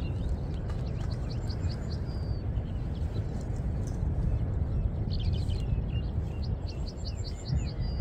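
Small birds chirping in runs of quick high notes, about a second and a half in, again around five seconds and near the end, over a steady low rumble.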